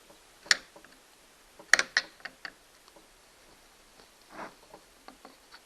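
Sharp clicks and light knocks of a Stihl 029 chainsaw's parts and hand tools being handled during its teardown: one click about half a second in, a quick run of clicks around two seconds, then a short rub and a few small ticks near the end.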